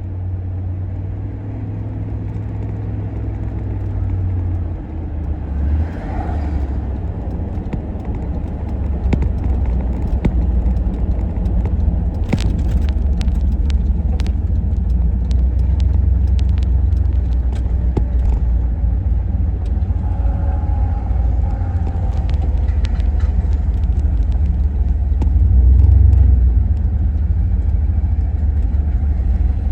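1990 GMC 1500 pickup running with a steady low rumble that slowly grows louder, with scattered sharp clicks through the middle stretch.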